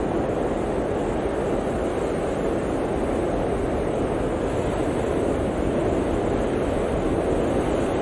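Blizzard wind blowing steadily, a dense rushing noise with a low, deep body and no gusts or breaks.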